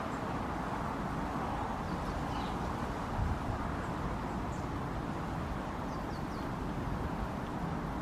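Steady low outdoor rumble, with a few faint, short, high bird chirps about two seconds in and again around four and a half and six seconds in.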